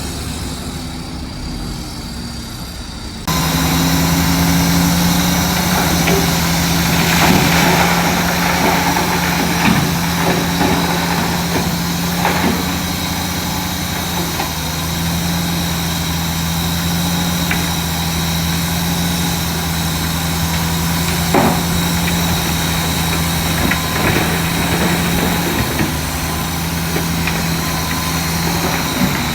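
Heavy diesel engine of earthmoving machinery running steadily, which turns suddenly louder about three seconds in, with a few scattered sharp knocks.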